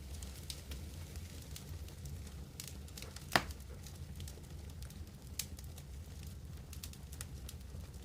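Wood campfire crackling: scattered sharp snaps and ticks over a steady low rumble, with one louder pop a little under halfway through.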